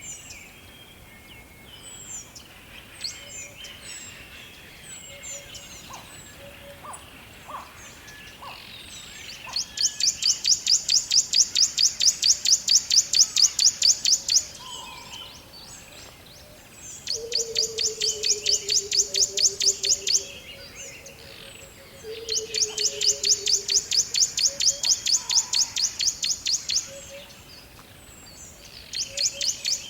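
Forest birds chirping, with a loud, fast, rapidly pulsed high trill that comes four times, each lasting a few seconds, and a low falling call twice in the middle.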